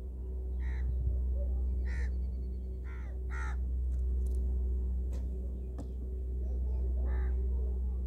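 About five short, harsh bird calls, caw-like, spaced irregularly, over a steady low hum.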